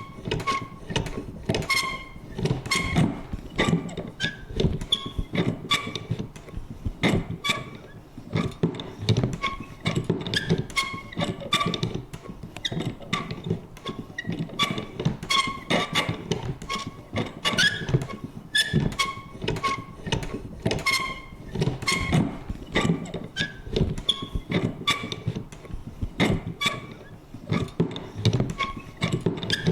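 Vintage lever paper punch worked over and over, about two strokes a second: each stroke a clunk with a short squeaky creak of the mechanism.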